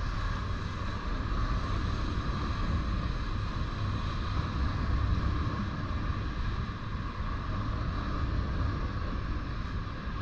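Freight train cars rolling steadily past over a grade crossing: a continuous low rumble of wheels on rail, with a steady higher hiss over it.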